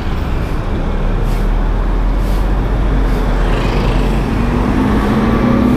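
Road traffic noise: motor vehicles running close by with a steady low rumble, and an engine note that climbs in pitch during the second half.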